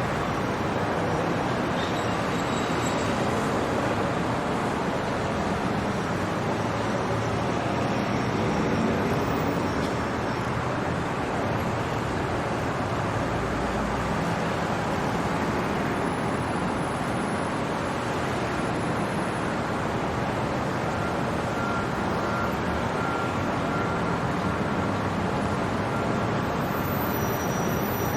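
Steady city traffic noise at night: a continuous, even wash of road traffic with no single vehicle standing out.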